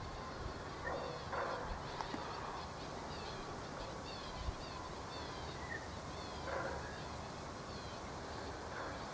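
Faint birdsong: a string of short, high, falling chirps, about two a second.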